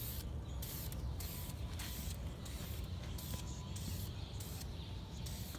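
Aerosol can of acrylic clear coat hissing in short, repeated passes as the spray is applied to a plastic headlight lens.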